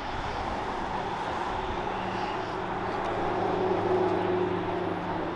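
An engine droning amid outdoor crowd-lot noise, swelling to a peak about four seconds in and then easing off, like a vehicle passing.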